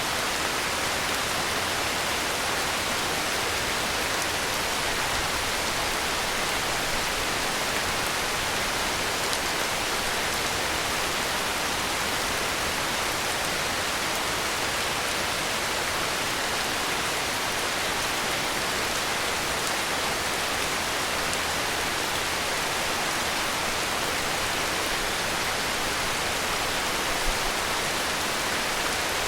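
Heavy rain falling steadily, an even, unbroken hiss, with one slightly louder tick near the end.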